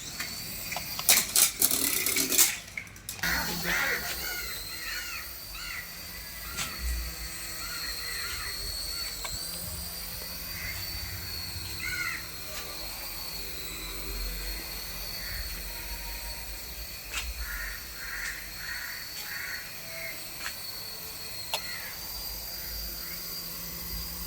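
Birds calling in short repeated calls over a steady high whine, with a burst of loud rattling noise about a second in.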